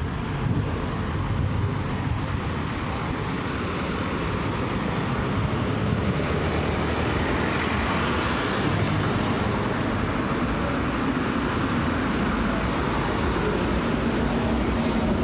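Steady rushing of water from a waterfall, growing gradually louder. A short high chirp sounds about eight seconds in.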